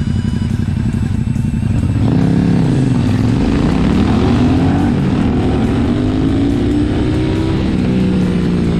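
Cruiser motorcycle engine idling, then about two seconds in pulling away under moderate throttle. The engine pitch rises steadily through the gears, with a brief drop at each shift.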